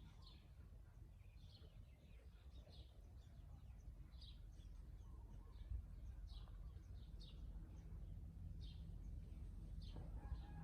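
Faint small birds chirping, short high chirps repeating every half-second to a second, over a steady low rumble of background noise.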